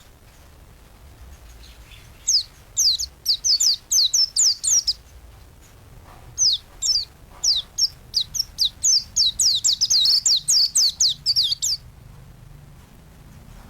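A white-eye (pleci) sings two long runs of rapid, high, falling chirps, roughly five or six notes a second. The first run lasts about three seconds and the second, longer one starts after a short pause.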